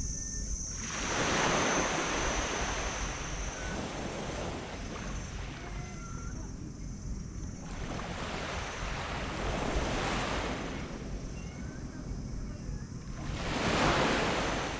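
Tropical sea waves breaking and washing up a black sand beach, three surges of surf about six seconds apart, each swelling and falling away. A steady high tone runs behind them.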